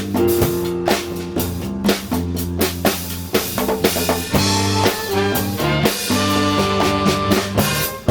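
Latin fusion band playing live: drum kit strokes on snare, rimshot and bass drum drive the closing bars over bass and keyboard chords. The drums break off just before the end, and a held chord follows.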